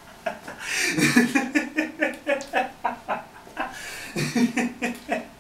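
Cartoonish voices laughing in quick, rhythmic 'ha-ha-ha' bursts, starting about a second in and running on for several seconds.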